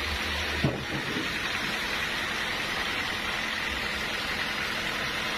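Sawmill machinery running steadily, with a single short knock just under a second in.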